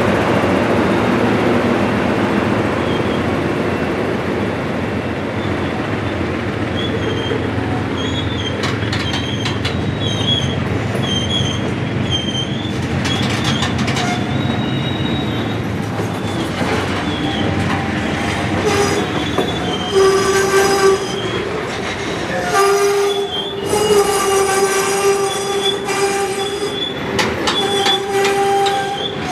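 Freight train's loaded covered hopper cars rolling past close by, a heavy rumble of wheels on rail that eases after the first few seconds. From about seven seconds in, the wheel flanges squeal on the rail in high wavering tones, joined near the end by lower, steadier squealing pitches.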